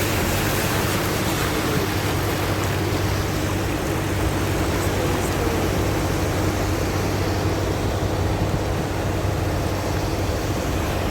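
Car moving through floodwater: a steady rush of water thrown up by the wheels over a low, even engine hum.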